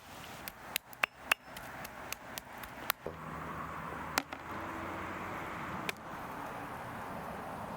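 A quick run of sharp knocks, a knife chopping on a wooden board, then from about three seconds in a steady sizzling hiss with a few single knocks over it.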